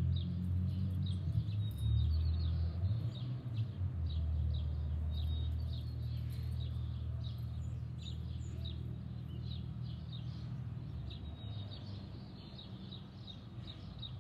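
Small birds chirping, short high chirps repeated a few times a second, over a low steady rumble that eases off toward the end.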